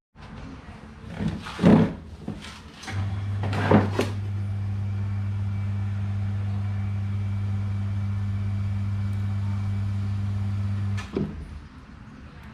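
A few knocks and clatters of handling, then a Hatari electric fan's AC motor is powered up and hums steadily at a low pitch for about eight seconds before it is switched off with a click.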